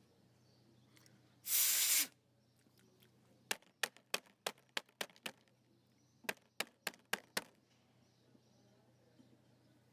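A half-second hiss of aerosol cleaner spraying, then two runs of sharp clicks, about three a second, the first of about seven clicks and the second of about five.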